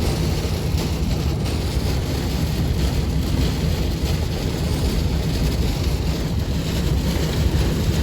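Car driving through a heavy rainstorm, heard from inside: a steady low rumble of engine and tyres under a hiss of rain and wind.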